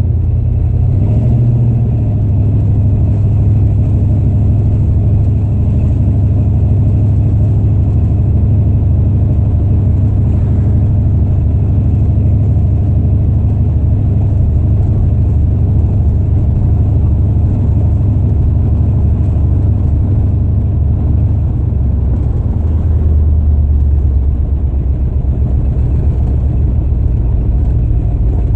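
1964 Chrysler 300K's 413 V8 with cross-ram carburetors running under way at low speed, heard inside the cabin as a steady low rumble. The engine is running well after a carburetor throttle-shaft rebuild.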